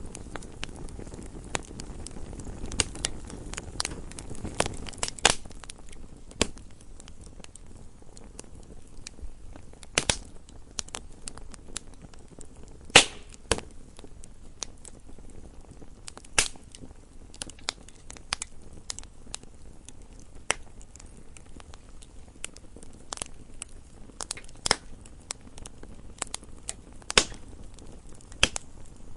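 Wood fire burning in a fireplace: irregular crackling, with sharp pops every second or so, a few much louder than the rest, over a soft low rumble of the flames.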